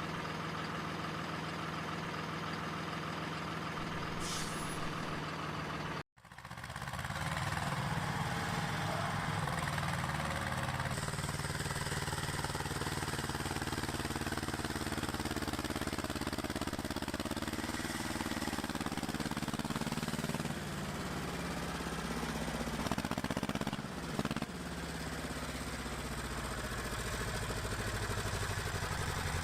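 Heavy truck-like engine sound running steadily, cutting out abruptly about six seconds in and coming back as another engine sound whose pitch sinks slowly, with a brief knock near the end.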